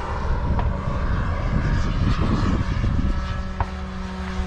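Radio-controlled model airplane engine running in flight over a steady low rumble of noise; a steady engine tone comes in about three seconds in.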